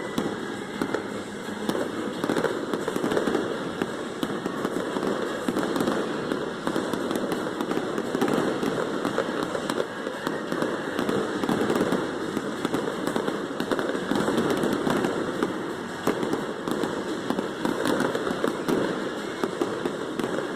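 Aerial fireworks going off in a dense, continuous barrage: rapid overlapping bangs and crackling with no break.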